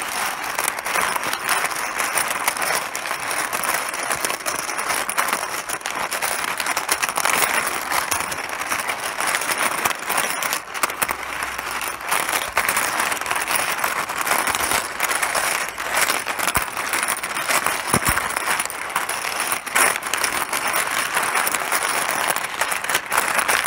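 Mahjong tiles clattering against each other continuously: a dense, unbroken stream of sharp clicks.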